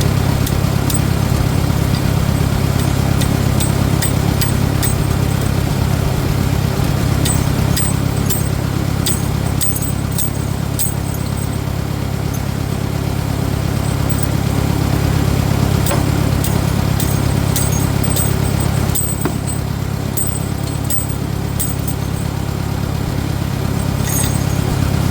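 Farmall 400 tractor engine running steadily at a low, even speed, with scattered light metallic clinks and taps over it.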